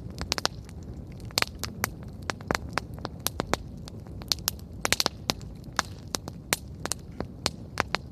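Wood campfire burning, with frequent sharp, irregular crackles and pops over a low steady rumble of the flames.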